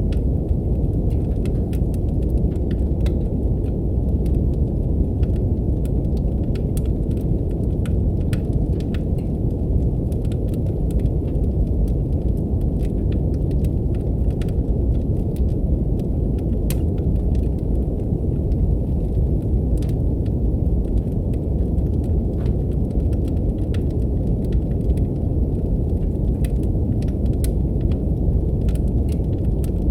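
Steady, deep brown noise with fireplace crackling laid over it: many short, sharp pops of burning wood scattered irregularly.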